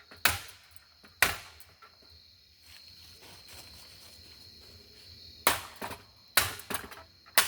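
A golf club striking a ceiling fan, several sharp metallic whacks. Two hits come about a second apart at the start, then a pause, then a cluster of hits with rattling knocks near the end. Crickets trill steadily in the background.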